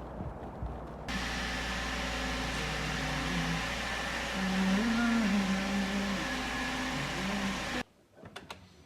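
Steady mechanical whirring noise with a low hum, starting abruptly about a second in and cutting off abruptly near the end.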